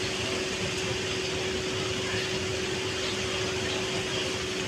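Steady mechanical drone: a constant hum with one steady tone over an even hiss, unchanging throughout.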